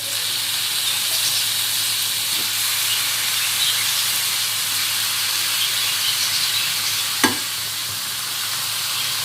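Chicken pieces frying in hot oil in a kadai with onions and ginger-garlic paste, a steady loud sizzle as the meat starts to release its water. A single sharp knock, about seven seconds in.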